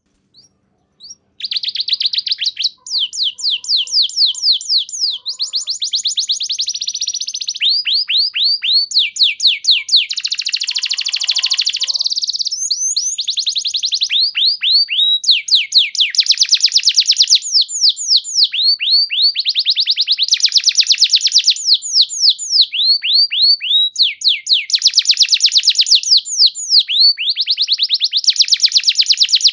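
Domestic canary singing a long, unbroken song of rapid trills. Each trill is a fast run of repeated down-slurred notes, and the song switches to a new trill every second or two after a brief pause near the start.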